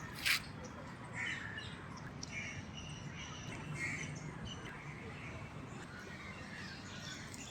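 Birds calling: one loud, short crow caw just after the start, then scattered high chirps from smaller birds over a steady low background.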